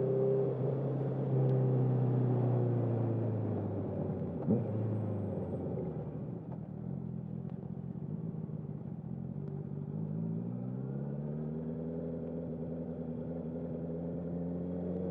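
2021 Honda CB650R's inline-four with a full Akrapovic exhaust, running under way and heard from the rider's jacket pocket. The engine note falls gradually over the first several seconds as the bike slows, holds low, then climbs steadily again from about ten seconds in as it accelerates. A brief sharp click about four and a half seconds in.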